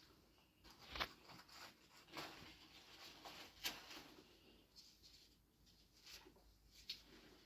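Faint scattered clicks and soft rustling, like small objects being handled, with the sharpest clicks about a second in, near the middle and near the end.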